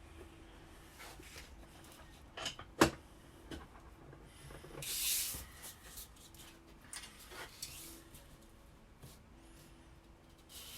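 Workbench handling noises while a broadhead is set up for sharpening on sandpaper over a glass plate: scattered light knocks and clicks, one sharp knock about three seconds in, and a short scraping hiss about five seconds in.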